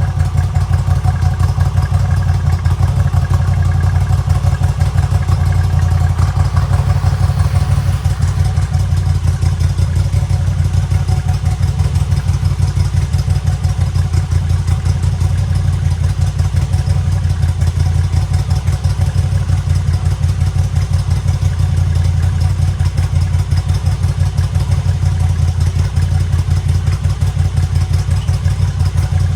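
Moto Guzzi V85TT's air-cooled transverse V-twin idling steadily with an even, lumpy pulse.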